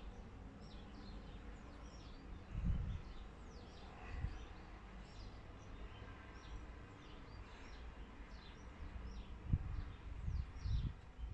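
Birds chirping faintly in the background, a steady run of short falling calls, with a few low thumps about two and a half seconds in and again near the end.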